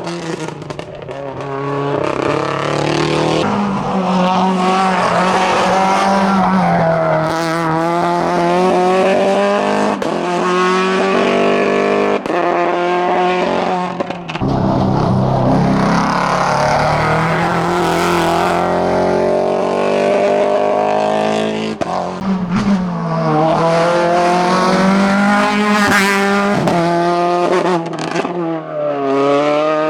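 Hillclimb race car's engine at full throttle, revving up through the gears in long rising pulls, each broken by a gear change. Twice in the later part the pitch falls sharply as the car brakes and shifts down.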